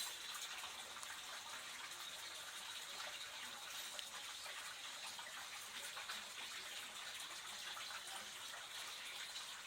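Water running steadily in a small artificial stream, an even trickling rush.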